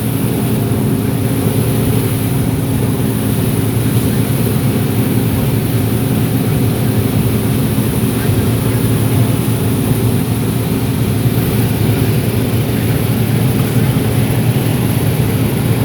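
Heavy diesel farm vehicle engine running steadily, a constant low drone with a steady high hiss over it.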